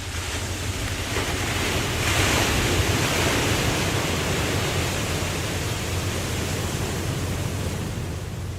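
Ocean surf: one wave surges, peaking two or three seconds in, then slowly washes out, over a steady low rumble.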